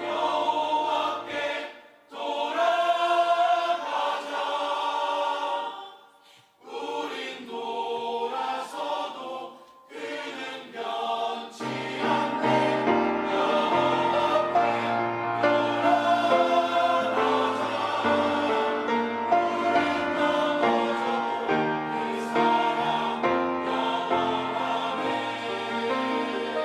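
Church choir singing an anthem, with brief breaks between phrases about two and six seconds in, and fuller singing from about twelve seconds in.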